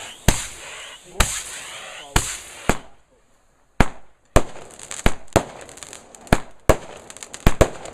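Fireworks going off in a rapid string of about a dozen sharp bangs, with crackling hiss between them. There is a brief silent gap about three seconds in.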